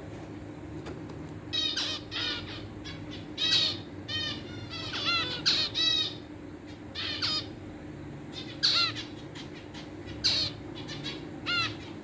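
Aviary birds calling: about a dozen short, sharp calls in small bunches, over a steady low hum.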